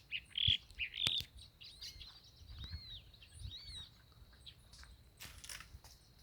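Many small birds chirping and calling, short varied notes and arched whistles overlapping one another, over a faint steady high whine.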